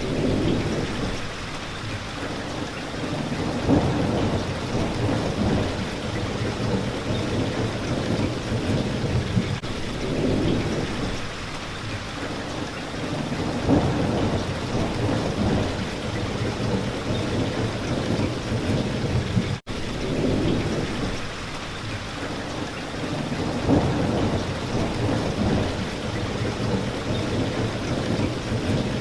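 Steady rain hitting a window, with low rumbles of thunder swelling and fading every few seconds. The sound cuts out for an instant about two-thirds of the way through.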